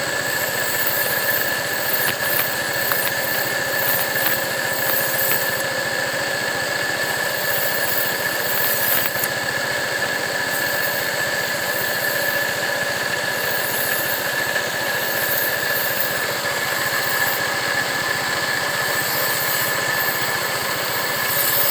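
A 70cc motorcycle engine running steadily to drive a knife sharpener, with a steady high-pitched whine and a hissing grind that swells and fades as a blade is worked against the wheel.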